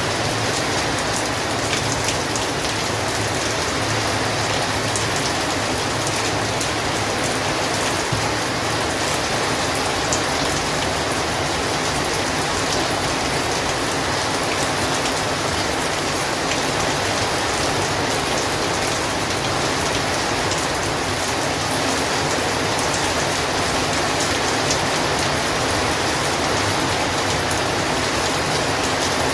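Heavy rain falling steadily: a dense, even hiss of rain on surfaces with fine individual drop patters through it.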